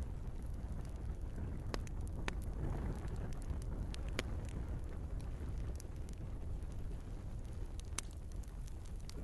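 Wood fire burning in a fireplace: a steady low rush of flame with scattered sharp crackles and pops from the logs, and a brief hissing swell about three seconds in.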